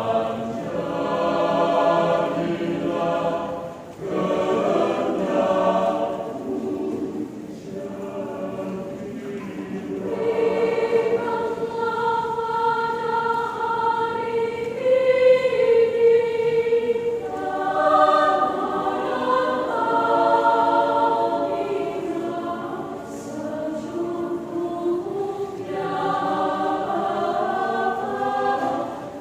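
Mixed choir singing a hymn in several parts, sustained notes with brief pauses between phrases.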